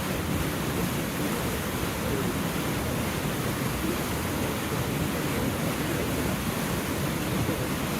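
River Taff rushing by: a steady, even wash of flowing water.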